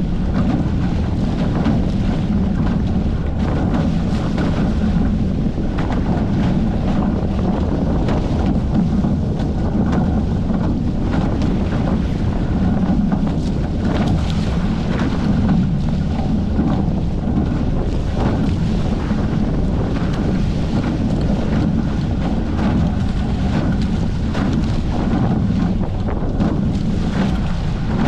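Steady wind buffeting the microphone aboard a Hobie 14 catamaran under sail, with water rushing past the hulls.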